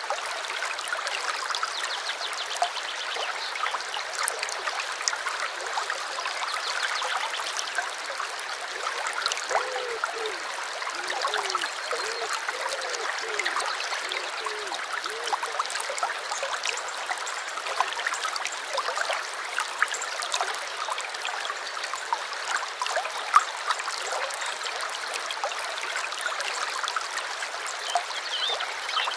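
Small stream trickling and gurgling over stones, steady throughout, with bubbling gurgles for a few seconds near the middle.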